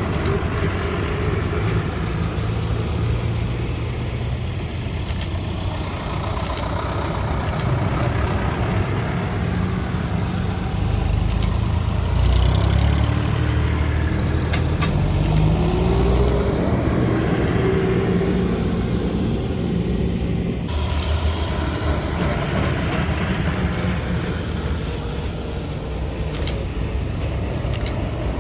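Tractor engines running as tractors drive past, a continuous rumble that grows louder toward the middle. The sound changes abruptly about two-thirds of the way through, after which a faint high whine is heard.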